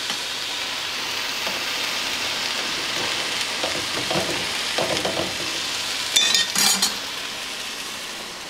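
Lion's mane mushroom pieces sizzling steadily in a hot stainless-steel frying pan as the last of their water cooks off. There are a few light knocks, then a short cluster of sharp clinks against the pan a little past the middle.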